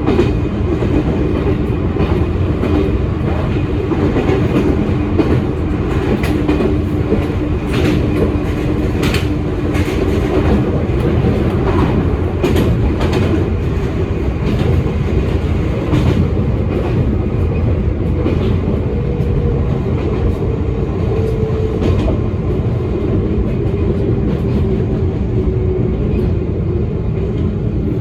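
Electric train running along the line, heard from inside the cab: a steady rumble with the wheels clicking over rail joints. A motor tone holds steady in the first half and shifts in pitch in the second half.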